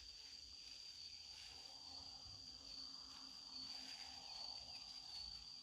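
Faint insect chorus outdoors, a steady high-pitched drone holding without a break.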